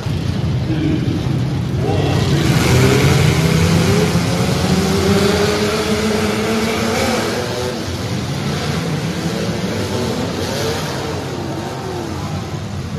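Several compact cars' engines running and revving at once in a demolition derby, their pitches rising and falling over one another, loudest a few seconds in.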